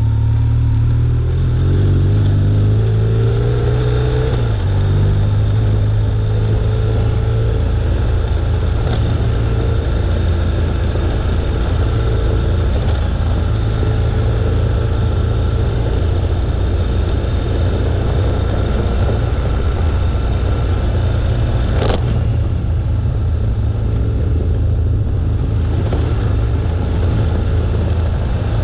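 BMW R1200GS boxer twin engine pulling through the gears, its pitch stepping up in the first few seconds, then running at a steady cruise, with constant wind and tyre noise. A single short, sharp click about twenty-two seconds in.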